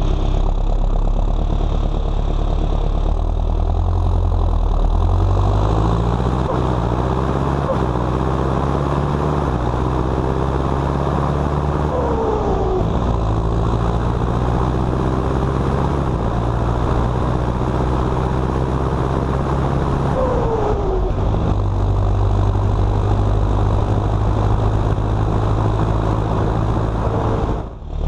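John Deere 6230 Premium tractor's four-cylinder turbocharged engine running while it pulls a trailer on the road, its note stepping up and down several times. A short falling whine is heard twice, about halfway through and again later.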